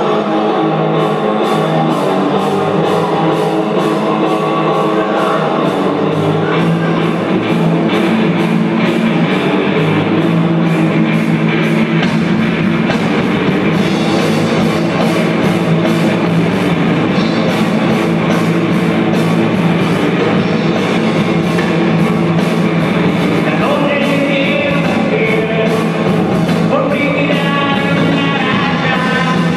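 Rock band playing live: distorted electric guitar and a drum kit on a fast, steady beat, with singing.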